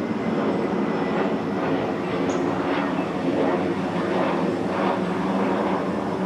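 Twin CFM56-7 turbofan jet engines of a Boeing C-40A Clipper running as the aircraft flies by, a loud, steady rumble that wavers and pulses.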